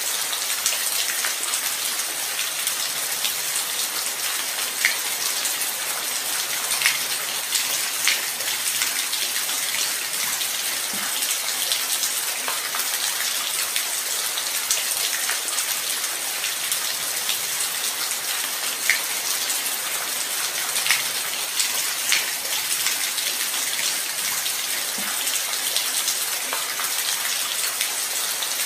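Steady light rain: an even hiss of falling rain with scattered individual drops ticking close by.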